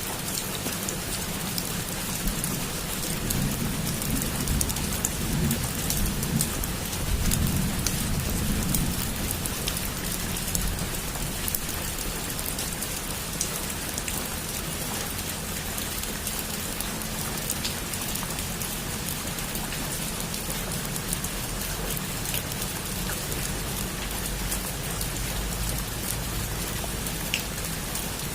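Heavy rain falling steadily on a roof, a dense even hiss with scattered sharp drop ticks. A low rumble of distant thunder swells a few seconds in and fades out by about nine seconds.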